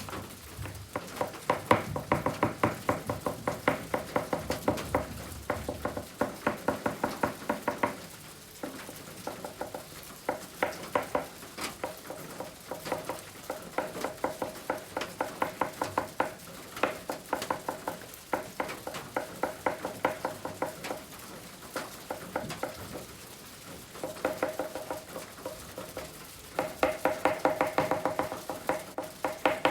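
Oil pastel stick scratched quickly back and forth on kraft paper in short hatching strokes, about four to five a second. The strokes come in runs broken by brief pauses.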